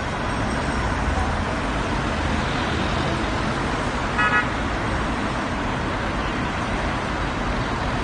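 Steady road traffic rumble, with a car horn giving two quick toots about four seconds in.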